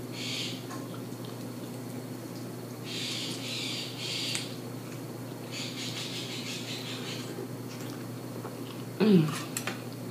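Close-up mouth sounds of someone chewing and smacking a mouthful of curry, coming in a few soft wet spells. About nine seconds in there is a short hummed "mmm" of enjoyment that rises and falls in pitch, the loudest sound.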